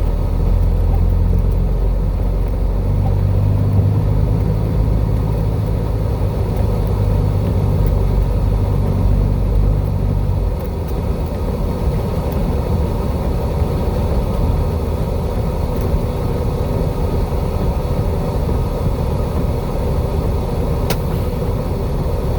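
Vehicle engine running steadily, heard from inside the cab as a deep low rumble. A little over ten seconds in, the steady engine note drops away and leaves a rougher rumble.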